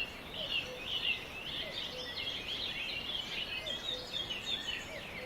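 Birds singing and chirping without a break, a dense run of short, quick, high notes.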